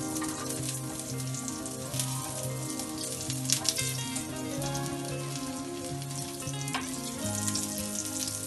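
Potato patty sizzling as it shallow-fries in oil in a flat pan, with a few sharp clicks as it is pressed and turned. Background music with a stepping bass line plays throughout.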